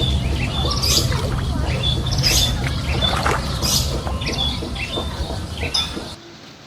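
Repeated short, high chirping and squawking animal calls over a steady low rumble, cut off abruptly about six seconds in.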